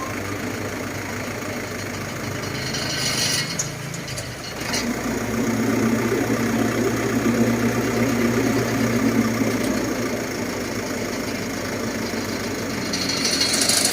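Crane truck's engine running steadily. About five seconds in it picks up and runs louder for several seconds, then eases back. There are brief hisses twice.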